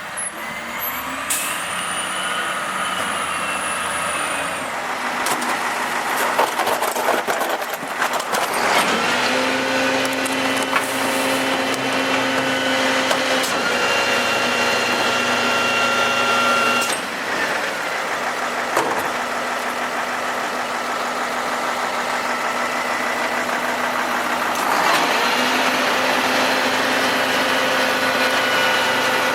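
Automated side-loader garbage truck at work, its engine running. A steady whine comes in about a third of the way through, stops a little past halfway, and returns near the end, with knocks and hisses in between.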